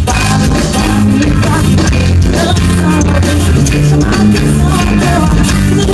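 Live pop-rock band playing loud amplified music with bass, guitar and drums, without vocals, between sung lines.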